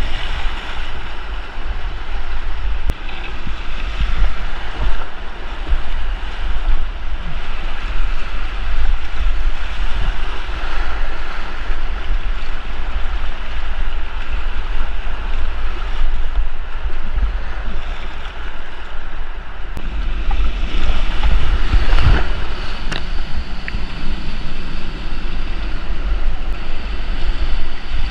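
Whitewater rapids rushing around a kayak, with wind and water buffeting the microphone as a steady low rumble; the rush swells for a few seconds about two-thirds of the way through.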